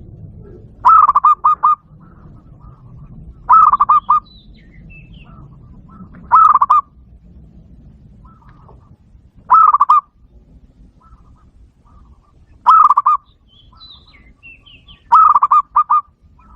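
Zebra dove calls, played through a Bluetooth speaker as a lure: six loud calls, about one every three seconds, each a quick rolling run of three to five cooing notes. Faint higher chirps sound between them.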